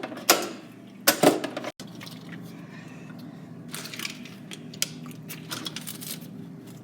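Clatter and knocks of drink cans and bottles being set into a refrigerator, with two louder clusters in the first second and a half, then scattered light clicks over a steady low hum.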